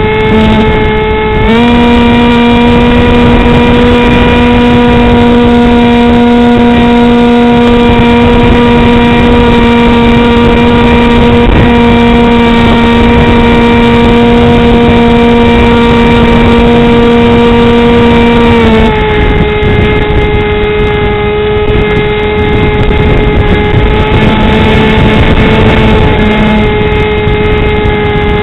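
Easystar RC plane's electric motor and pusher propeller running with a steady whine over wind noise. The pitch steps up about a second and a half in and drops back about two-thirds of the way through as the throttle changes.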